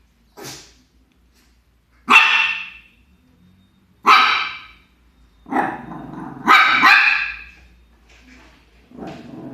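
A young pet dog barking in separate loud barks about two seconds apart, with a quick double bark past the middle, a soft yip just before the first bark and a softer bark near the end.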